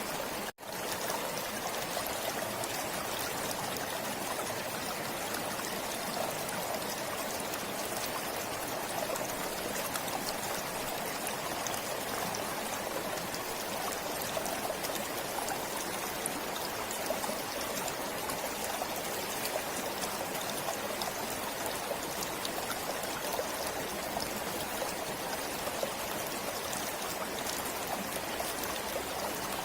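Forest stream flowing steadily, water running and trickling with an even rush. The sound cuts out for an instant about half a second in.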